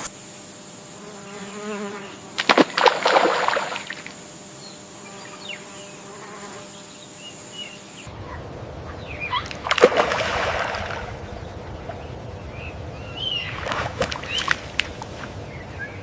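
Tropical wetland ambience: a steady high insect hum and a buzzing insect, with three short splashy bursts of water. The insect hum stops about halfway.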